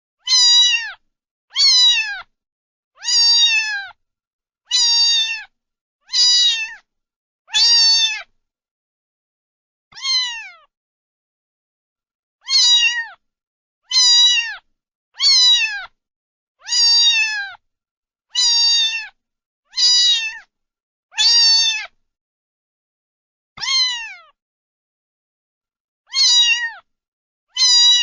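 A cat meowing over and over, about seventeen short meows that each slide down in pitch, with brief pauses between them.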